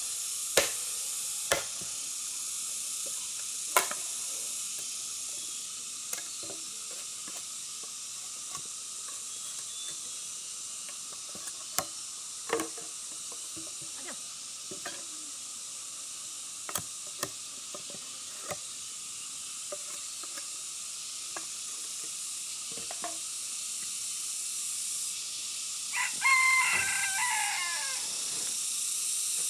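Food sizzling steadily in a hot pan, with scattered clicks and knocks from a utensil stirring it. About 26 seconds in, a rooster crows once, for about two seconds.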